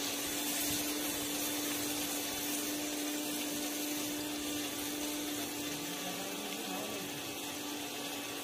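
Wet masala sizzling in hot mustard oil in an iron kadai: a steady hiss, with a steady low hum alongside.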